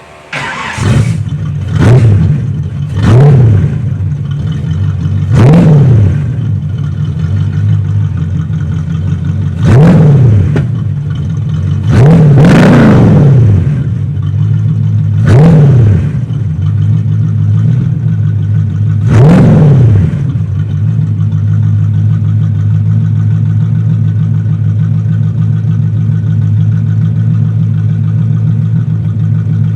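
Chevy Monza's engine exhaust through knock-off Super 10 mufflers: the engine comes in suddenly, is blipped about seven times in quick revs that rise and fall, then settles to a steady idle for the last ten seconds.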